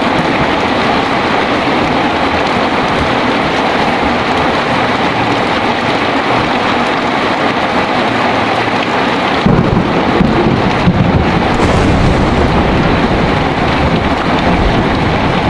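Heavy rain falling steadily, with a low roll of thunder breaking in suddenly about two-thirds of the way through and rumbling on.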